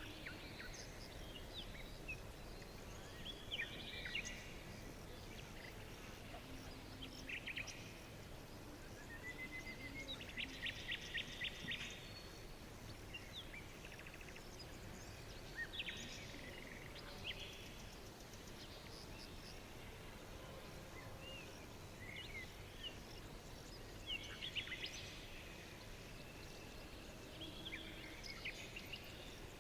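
Birds chirping and trilling over a faint steady background hiss, with short calls scattered throughout and a fast, evenly repeated trill about ten seconds in.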